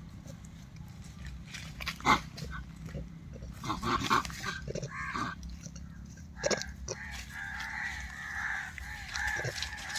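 Short animal grunts and squeaks mixed with scattered knocks, with a wavering high-pitched call from about seven seconds in.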